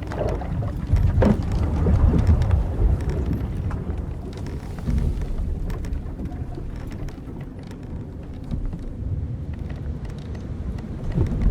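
Old wooden sailing ship at sea: a steady low rumble of wind and waves, with the wooden deck and ropes creaking a few times, in the first second or so and again near the end.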